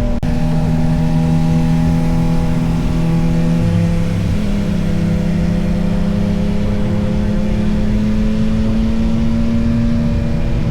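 Yamaha XSR900's inline three-cylinder engine running at steady revs while the bike is ridden, over heavy wind rumble on the microphone. The engine note changes briefly about four seconds in.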